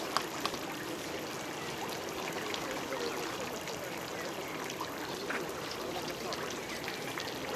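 Steady running, trickling water, with scattered small clicks; the sharpest click comes just after the start.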